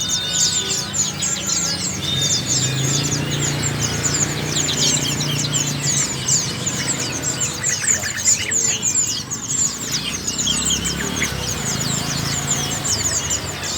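Dense, continuous chirping of many small caged birds at once: a chorus of rapid, high, down-slurred chirps with no break.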